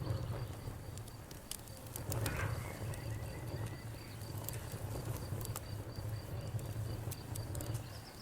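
Wood fire crackling: irregular sharp pops and snaps over a steady low rumble, with a brief swell of hissing about two seconds in.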